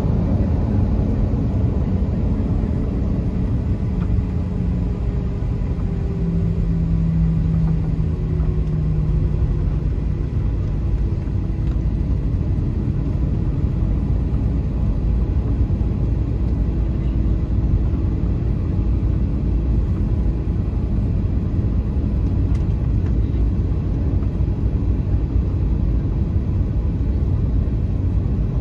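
Steady rumble of a Boeing 737-800's CFM56 jet engines heard inside the passenger cabin, with a faint low hum that fades about a third of the way in.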